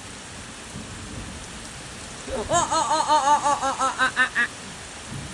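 Heavy thunderstorm rain pouring steadily. About two seconds in, a quick run of about a dozen short pitched hoots speeds up and rises in pitch before stopping.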